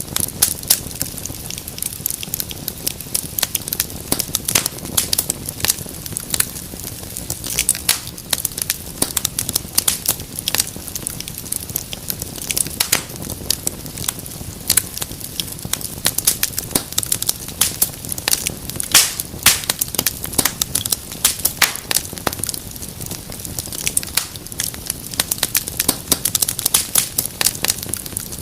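Wood fire crackling: many quick, irregular pops and snaps over a steady low rumble and hiss of the flames.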